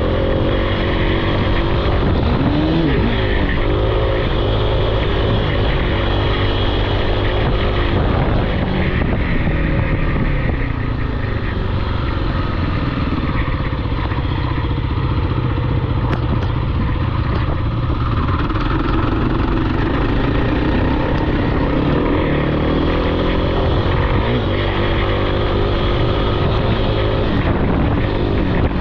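Off-road vehicle engine running hard, revving up and easing off again and again, with a steadier, lower-revving stretch midway.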